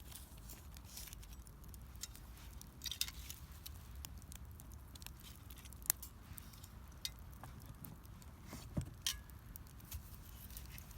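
Wood fire crackling, with irregular sharp pops, the loudest about halfway through and a few more close together near the end, over a low steady rumble.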